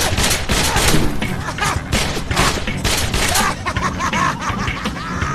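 Volleys of rapid gunfire, many sharp shots in clusters through the first three and a half seconds or so, over a film soundtrack of a car chase.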